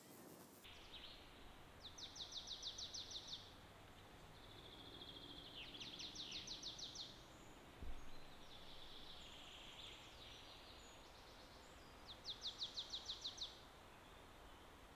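A songbird singing, repeating a short trill of rapid, evenly spaced high notes three times, with softer bird calls between, over faint outdoor ambience. A brief soft low bump about halfway through.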